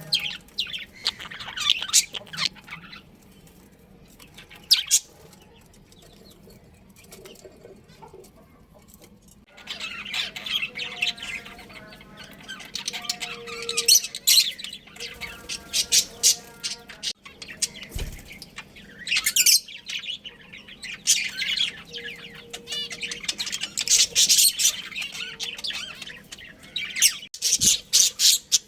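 Budgerigars chirping and chattering, a few scattered high chirps at first, then a busy, overlapping chatter from about ten seconds in.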